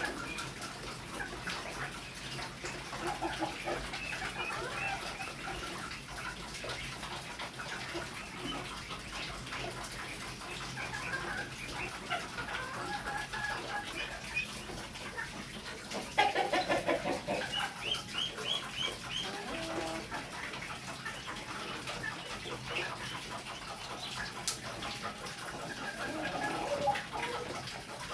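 Chickens clucking and calling in a coop over a steady hiss of rain, with a louder run of clucks about two-thirds of the way through.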